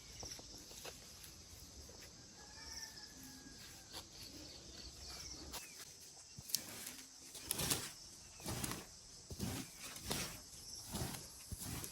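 A bird calls faintly a few times, then irregular short strokes, about one a second, from clearing the garden by hand start about halfway through.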